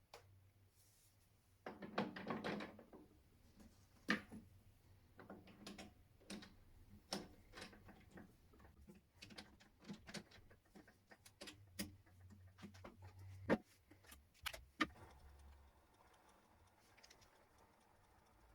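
Irregular light knocks and clicks, a dozen or so spread over about thirteen seconds, with a short burst of rustling about two seconds in, then quieter.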